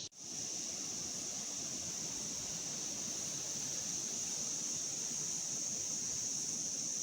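Steady chorus of forest insects: a continuous high-pitched drone that holds level throughout.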